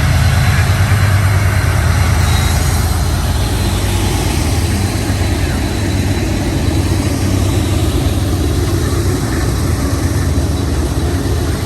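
Freight train diesel locomotive engine running with a deep, steady throb over a noisy rumble, easing slightly after a few seconds.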